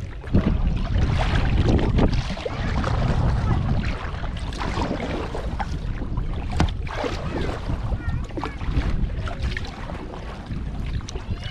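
Kayak paddle splashing and water sloshing around the hull, with wind rumbling on the microphone.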